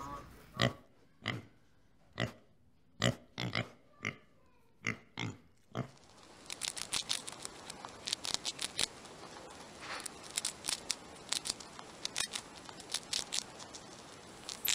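A pig grunting, about ten short separate grunts over the first six seconds. Then a hamster gnawing at a dried corn cob, a fast, uneven run of small crunching clicks.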